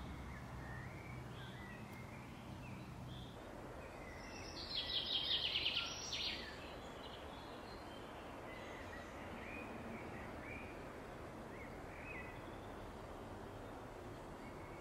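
Quiet woodland ambience with scattered short songbird chirps, and one louder, rapid trilling song about four and a half seconds in that lasts about two seconds.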